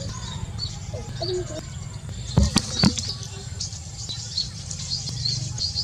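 Many small birds chirping and twittering in quick high-pitched calls, over a steady low hum. Two sharp knocks sound about two and a half and three seconds in.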